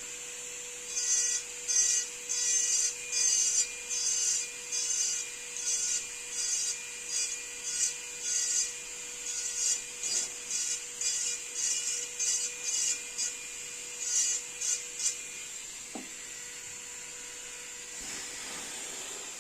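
Wood being rubbed down by hand in quick back-and-forth strokes, about two a second, stopping about three-quarters of the way through and leaving a steady hiss with a faint hum and one click.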